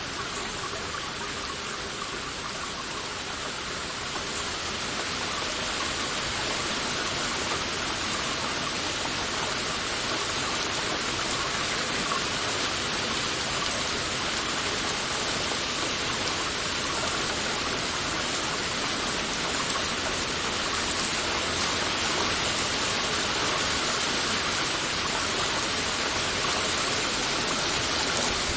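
Heavy rain falling steadily in a dense, even hiss, getting a little louder a few seconds in.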